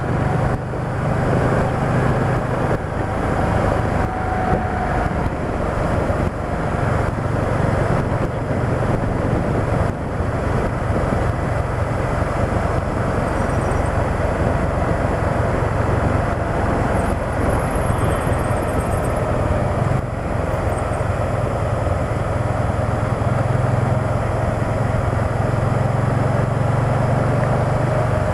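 Can-Am Spyder three-wheeled motorcycle cruising at road speed: a steady engine hum under continuous wind and road noise.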